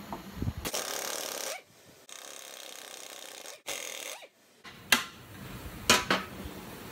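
Handling noise from torn-down NV4500 transmission parts: a brief rush of noise, then three sharp clicks or knocks near the end.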